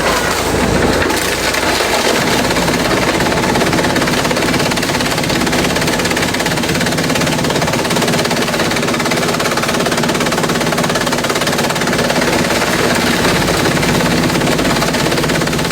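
Industrial bamboo shredder running steadily under load, a loud, dense, rapid clatter over a steady low machine drone.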